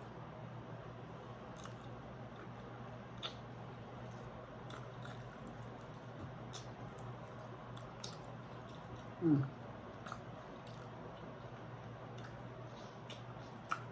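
A person quietly eating chicken and salad: sparse soft clicks of chewing and biting. About nine seconds in comes one short falling hum from the eater's voice.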